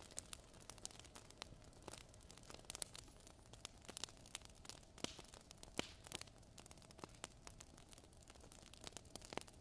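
Wood fire crackling faintly, with irregular sharp pops and snaps over a soft steady hiss.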